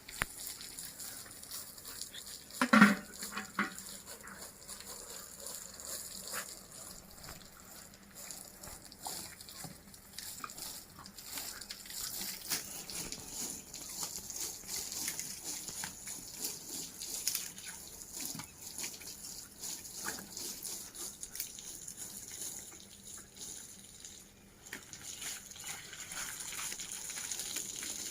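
Running water splashing steadily as a German Shepherd plays in it, with small scattered splashes and one short, loud sound about three seconds in.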